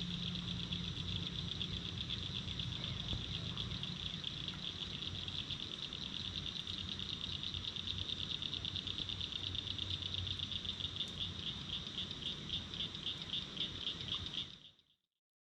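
A chorus of insects chirring: a steady, high-pitched, fast-pulsing trill with a low hum beneath it. It fades out near the end.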